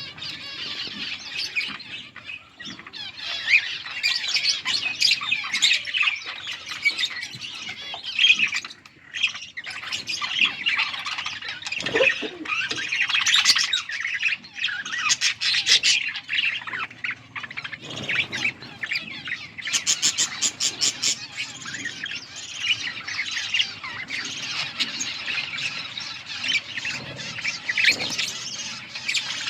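Several Hagoromo budgerigars chirping and chattering continuously, mixed with harsh squawks. About twenty seconds in comes a quick run of clicking notes.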